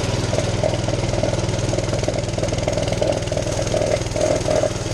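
Small single-cylinder mini bike engine running with its governor removed, its note pulsing steadily without big revs.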